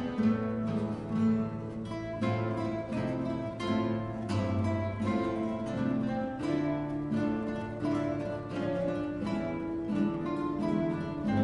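Acoustic guitar ensemble playing in a steady rhythm, several guitars plucking melody and chords over a low bass line.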